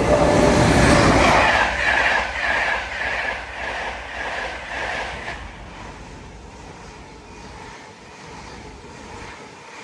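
Express passenger trains passing at speed on the main line, a loud rush of wheel and air noise followed by a quick regular clickety-clack of wheels over rail joints, about two to three clicks a second, fading away after about five seconds.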